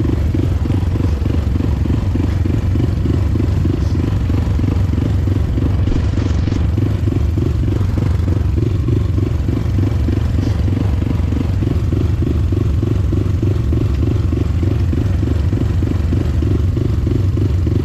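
Motorcycle engine running steadily while riding, with an even, regular pulsing throb.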